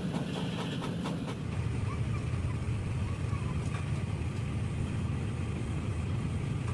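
An engine running steadily with a low, even rumble, with a few sharp clicks or taps in the first second and a half.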